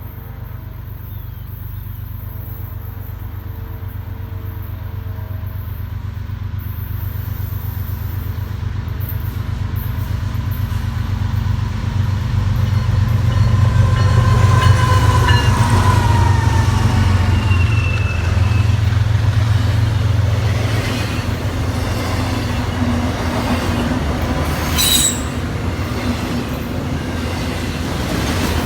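A train approaching and passing, its low rumble building steadily to a peak about halfway through and staying loud, with brief high wheel squeals near the middle.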